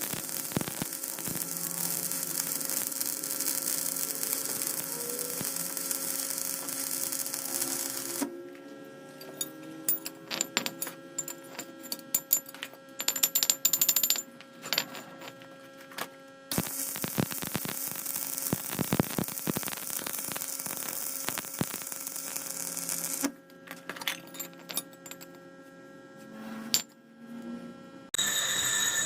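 Metal lathe machining a wheel hub: the lathe running with a steady hum and a hiss of cutting, alternating with stretches of sharp metallic clicks and knocks, the sound changing abruptly several times.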